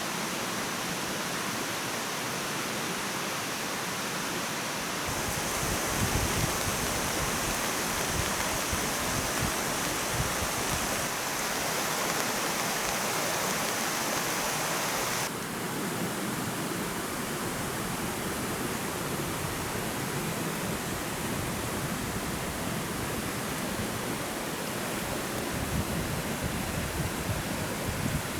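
Steady rushing of running water, whose tone changes abruptly about five seconds in and again about fifteen seconds in.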